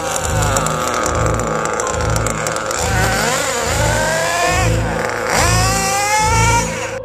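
Small nitro RC engine running at high revs and revved up twice, each time a rising whine. It plays over background music with a steady low beat.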